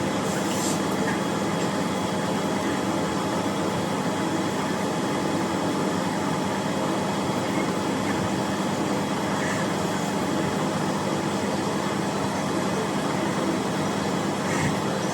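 Steady machine noise, an even rushing hum with a few faint constant tones, like a fan or running machinery.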